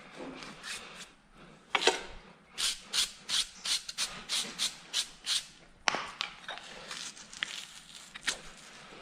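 A hand tool scraping hoof horn in repeated short strokes. They come in a quick run of about three a second through the middle, with single harder strokes before and after.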